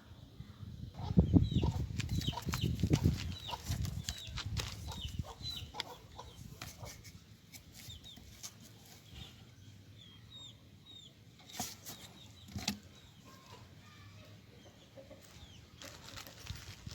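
A bird's wings flapping hard for about three seconds, starting about a second in, followed by a string of short, high chirps and scattered light clicks.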